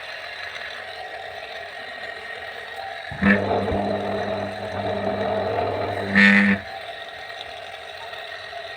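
Small electric motor, refitted with new bearings, spinning with a steady whir. It is switched on again about three seconds in, adding a low electrical hum with a brief louder surge, and switched off about three seconds later, after which it coasts on with the whir.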